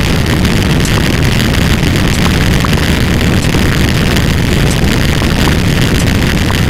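Loud, unbroken wall of stacked sound effects, dominated by a deep rumble with explosion-like booms and scattered short clicks.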